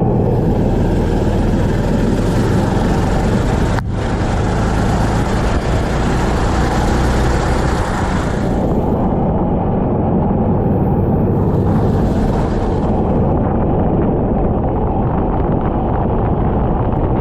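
Racing kart engine running continuously at speed, with wind buffeting the microphone.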